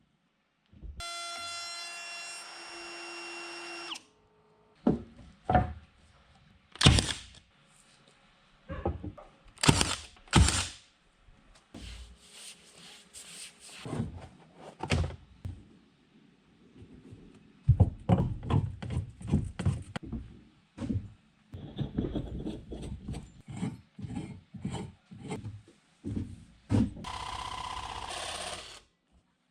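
Woodworking and tool sounds: a steady power-tool whine for about three seconds near the start, then scattered knocks and clicks of wood and tools. A denser run of knocking follows in the second half, with another short steady tool noise near the end.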